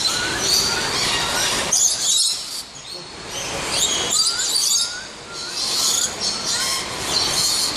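A flock of birds chirping and screeching at close range: many shrill calls overlap, with short rising whistles repeated every second or so.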